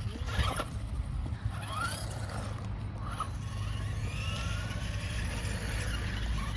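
Electric RC car motors whining as the cars speed up and slow down: several short rising and falling whines over a low, steady rumble.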